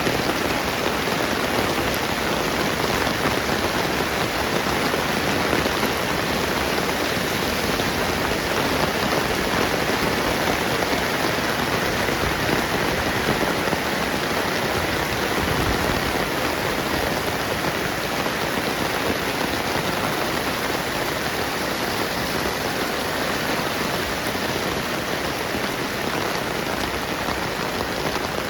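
Gentle rain falling steadily on surfaces, an even wash of sound with no breaks.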